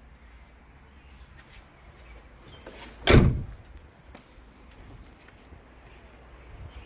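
A single loud slam about three seconds in, with faint clicks and rustling around it.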